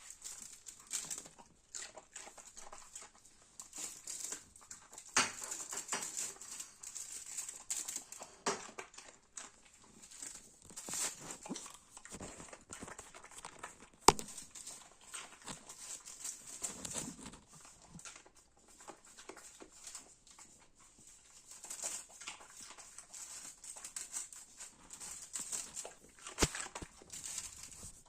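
A dog eating: irregular chewing and mouth noises, clusters of short clicks and smacks that come and go. A single sharp click about halfway through.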